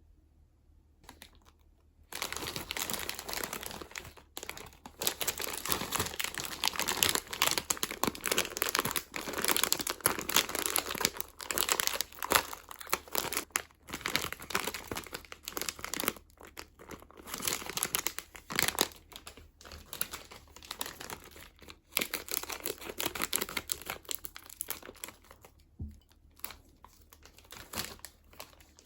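Plastic snack packaging crinkling and rustling as it is handled and opened by hand. The crinkling starts about two seconds in and goes on in irregular bursts with short pauses.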